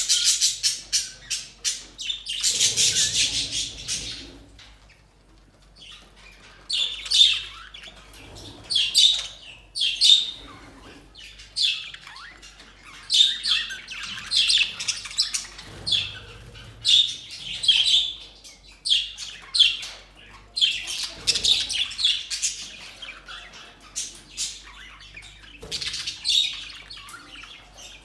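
Budgerigars chirping and squawking: a dense burst of rapid high-pitched chatter at the start, then separate chirps and squawks about once a second.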